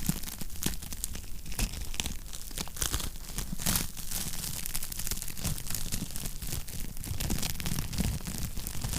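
Wood fire crackling in a fireplace, with irregular pops and snaps over a low steady rumble.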